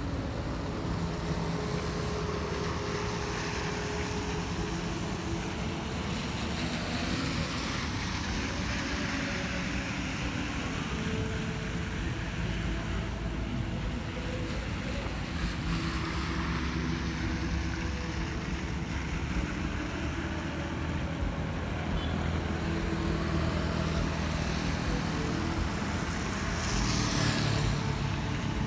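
City road traffic passing on wet roads: a steady mix of engine hum and tyre hiss, getting a little louder near the end as a vehicle passes close.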